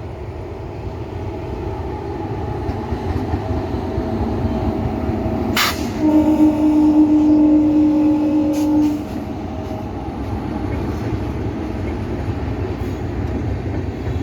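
Indian Railways express train running with a steady low rumble; about six seconds in, the train's horn sounds once, a single held note for about three seconds, the loudest sound here.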